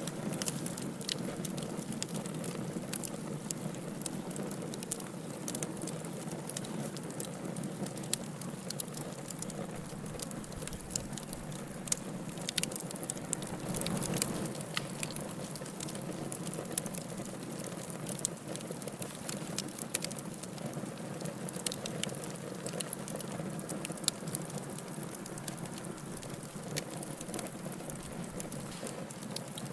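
Wood fire burning in a fireplace, crackling steadily: a constant low hiss and rush of the flames with many irregular sharp pops and snaps, a few louder ones standing out.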